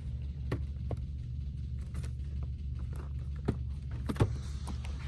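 Steady low hum with scattered light clicks and knocks, the loudest a little past four seconds in.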